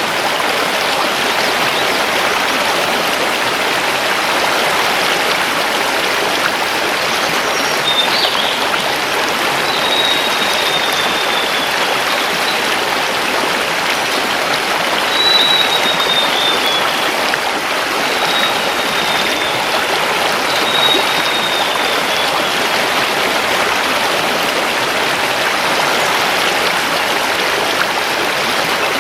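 River water rushing over stones, a steady even flow. A bird sings over it several times in the middle stretch, each call a short high whistle falling slightly in pitch.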